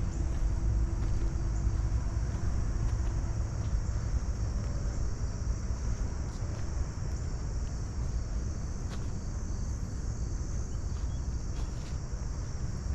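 Steady low rush of a waterfall, with a constant high chirring of crickets or other insects above it.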